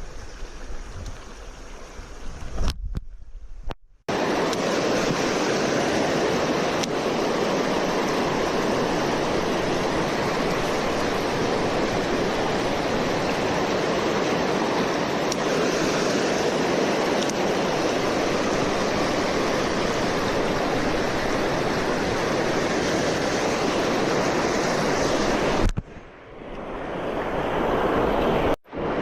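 Steady rushing noise of flowing river water. It breaks off twice, a few seconds in and near the end, and comes back each time.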